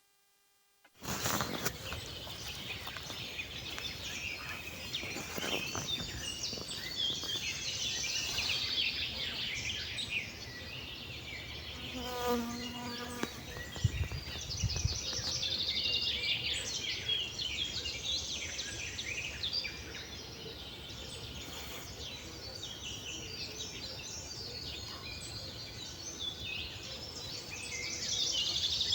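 Birdsong in a spring forest: many small birds singing and chirping at once. About halfway through there is a short, lower call, followed by a couple of low knocks.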